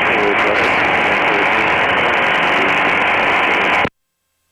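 Aircraft VHF radio receiving a weak, noisy transmission: a steady hiss with a faint garbled voice buried in it, which cuts off abruptly near the end when the squelch closes.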